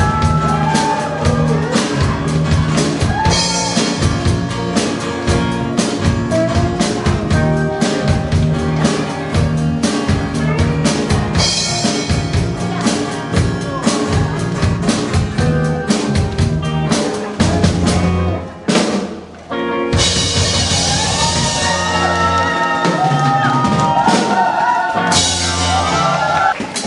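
A live amateur band playing rock-style music, with a drum kit, low sustained bass notes and a bending melody line on top. The music drops out briefly a little after two-thirds of the way through, then comes back in full.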